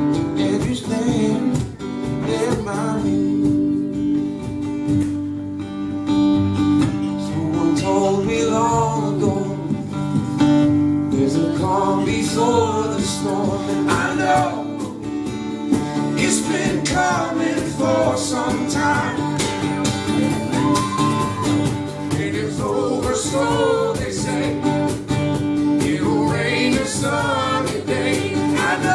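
Acoustic guitar music with male voices singing a pop song, the singing coming in more strongly about eight seconds in.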